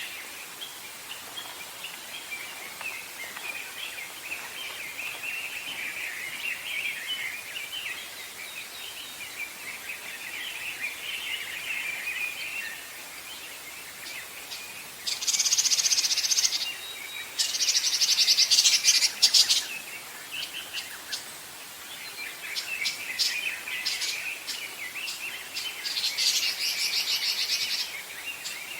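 Wild birds singing and chattering in a forest: a steady busy twittering, joined by loud, high, rapid trills about halfway through and again near the end.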